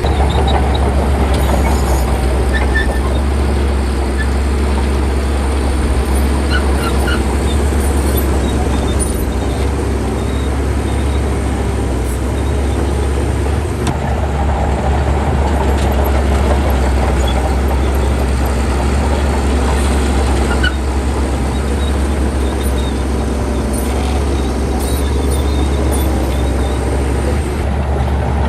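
Heavy diesel earthmoving machinery running steadily, with a constant low engine drone.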